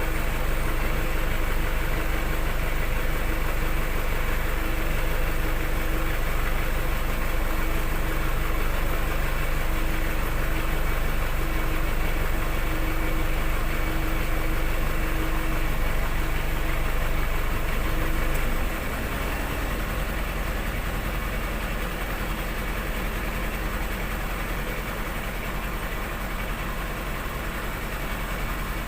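Container truck's diesel engine idling steadily. About two-thirds of the way through the hum drops a little in level and its tone changes.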